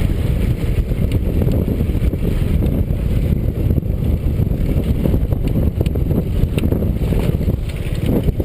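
Motorcycle on the move, heard as a dense, steady low rumble of engine and wind buffeting the microphone.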